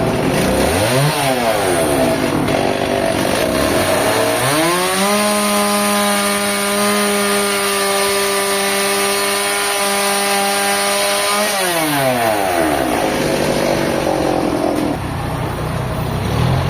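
An engine revving: a short blip about a second in, then it climbs to high speed, holds there steadily for about seven seconds and winds back down near the end.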